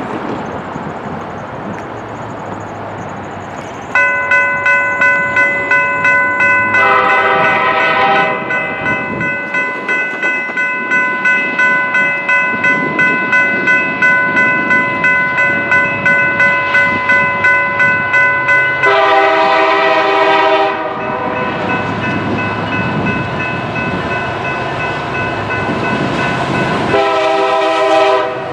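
Nathan K3LA chord horn on a Norfolk Southern SD70ACe locomotive, sounded in three blasts: a short one about 7 seconds in, a longer one near 19 seconds and another near the end. From about 4 seconds in, a bell rings steadily about twice a second.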